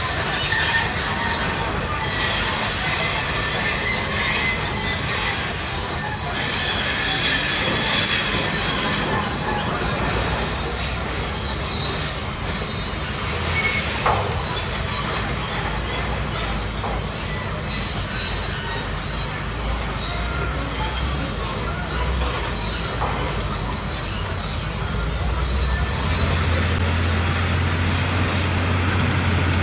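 Heavy hydraulic excavator working, its diesel engine running under a steady high-pitched squeal. The engine gets louder near the end.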